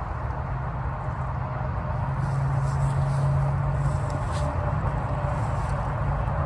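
Steady traffic noise from a highway, a vehicle's drone swelling louder about two seconds in and easing off again a couple of seconds later.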